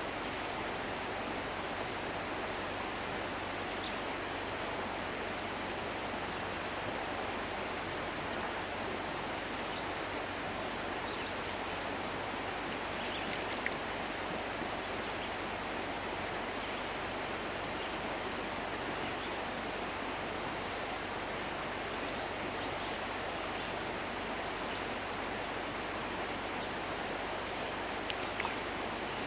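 Steady rush of flowing river water, with a couple of brief clicks.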